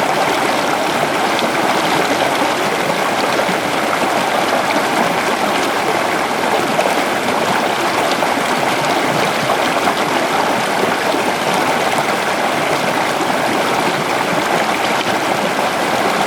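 River flowing steadily: a constant, even rush of water.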